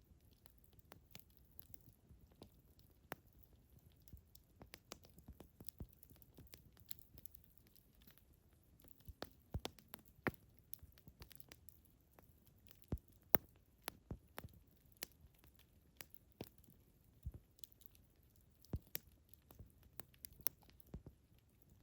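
Campfire wood crackling, with irregular sharp pops and snaps several times a second over a faint low rush of flame.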